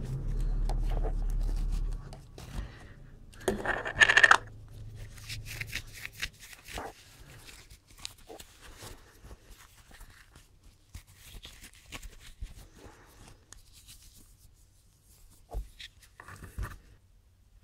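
Rubbing and scrubbing on the faceplate of a vintage studio limiter during cleaning, with one loud scrub about four seconds in, then scattered faint rubs and handling clicks. A low hum runs through the first two seconds.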